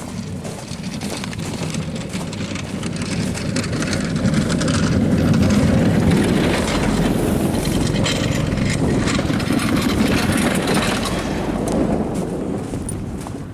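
A motor vehicle passing slowly, a rumble with a hiss that grows louder toward the middle and fades away near the end.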